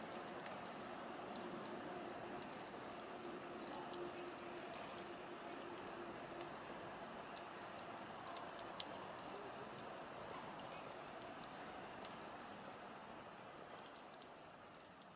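Wood fire burning in a campfire stand: irregular sharp crackles and pops over a steady soft hiss of the flames, with a faint low whistling note during roughly the first six seconds.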